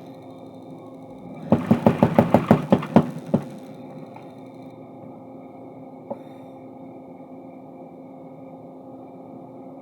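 Mechanical power hammer pounding hot steel bar in a quick run of about ten blows, some five a second, lasting about two seconds. After that only a steady machine hum remains, with a single knock a few seconds later.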